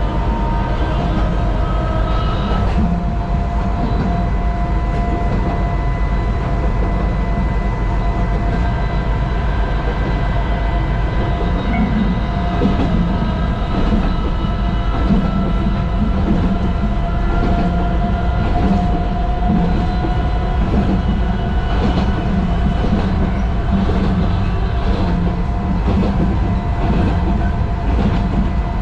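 Sangi Railway Hokusei Line 762 mm narrow-gauge electric train running along the line, heard from inside the cab: a continuous rumble of wheels on rail with a steady high whine from the running gear and occasional rail-joint clicks.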